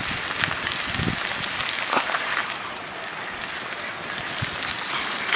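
Onion, tomato, ginger and garlic masala sizzling in hot oil in a kadai as it is fried down, with a few light knocks; the sizzle eases a little in the middle.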